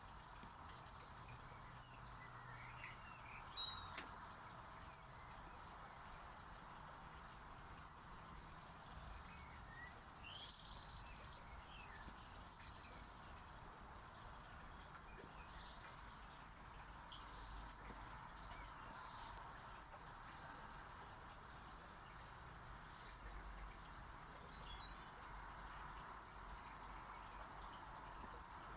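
Small bird giving short, sharp, high-pitched chirps, repeated about once a second, over a faint steady background noise.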